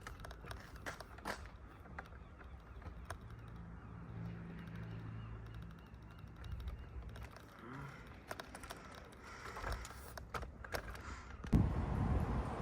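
Faint low engine hum from a vehicle idling, with scattered light clicks. Near the end a sudden, much louder rush of noise sets in.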